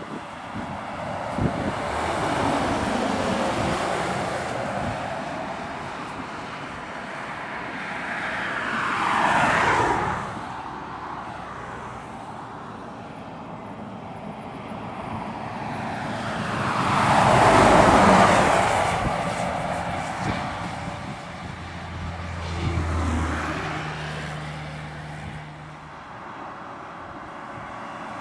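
Heavy trucks labouring up a long climb, passing one after another, each swelling to a peak and fading away as it goes by; the loudest pass comes about eighteen seconds in. A deep engine drone under load stands out near the end.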